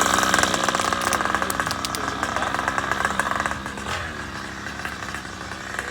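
Small gas engine of a large-scale RC car running with a fast, even beat, fading away about three and a half seconds in.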